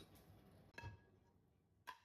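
Quiet room with two faint knocks. The first comes about a second in and rings briefly; the second comes near the end.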